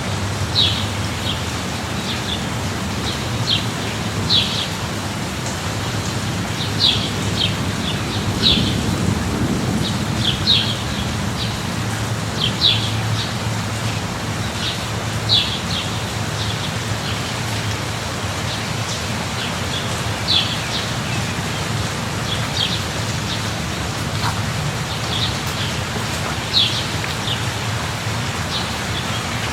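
Steady light rain falling, with a bird chirping: short, high chirps repeating irregularly every second or two.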